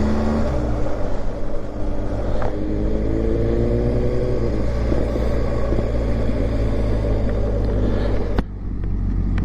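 BMW GS motorcycle engine under way, its pitch rising as it accelerates, then breaking at a gear change about half a second in. It rises again between about two and four and a half seconds. A steady rush of noise runs underneath, and the level dips briefly near the end.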